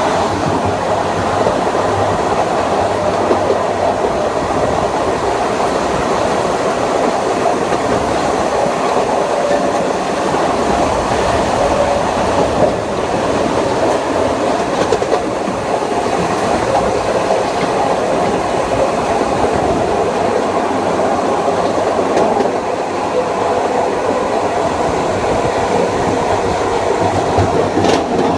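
Steady running noise of a Kawasaki M9 electric multiple-unit train heard from on board, with the wheels rumbling on the rails at a steady speed.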